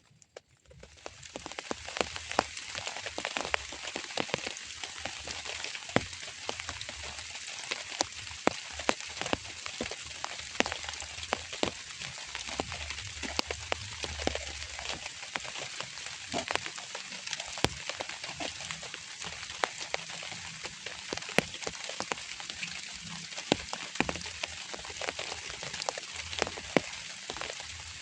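Steady rain falling, a hiss full of many sharp individual drop hits. It fades in about a second in.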